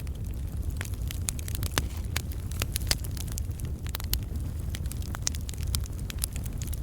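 Wood campfire burning, with irregular sharp crackles and pops from the logs over a steady low rumble of the flames.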